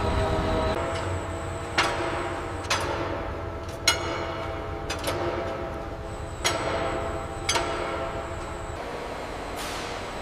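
Steady machinery hum of several tones in a large factory space, with about six sharp knocks, each ringing briefly.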